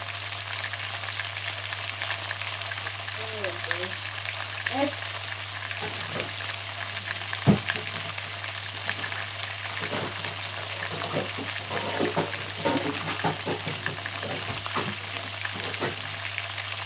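Chicken thighs frying in an enamelled cast-iron casserole pot, a steady sizzle full of small crackles and pops. A single sharp click about halfway through.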